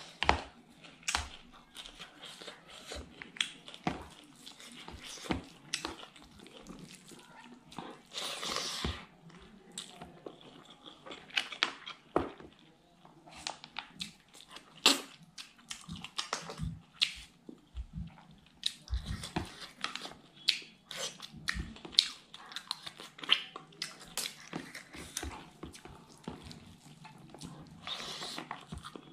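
Close-up eating sounds of curried rice and butter clams eaten by hand: wet chewing with many short, sharp mouth smacks and clicks.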